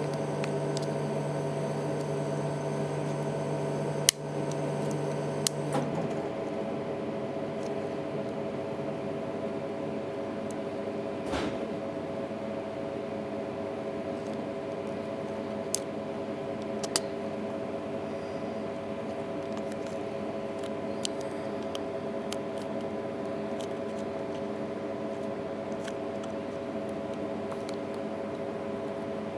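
A steady hum made of several even tones, its lowest tone cutting off about six seconds in, with a few sharp small clicks and taps scattered through, the loudest about four seconds in.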